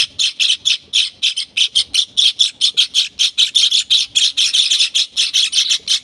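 A brood of young gelatik birds begging with a dense, continuous chorus of short, high, rasping cheeps, several a second: hungry chicks calling to be hand-fed.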